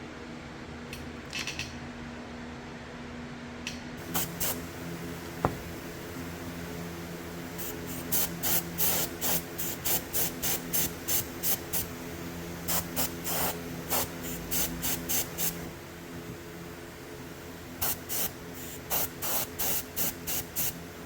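Paint being sprayed onto a model in many short hissing bursts, about two or three a second in runs, over a steady background hum.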